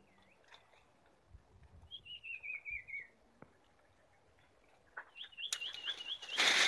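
A wild songbird singing: a descending trilled phrase about two seconds in, then a run of quick rising chirps near the end. A loud rustling of leaves and branches comes in the last half-second.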